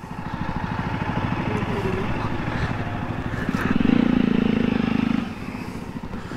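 Motorcycle engine idling with a steady, even beat, getting louder for a second or so about four seconds in.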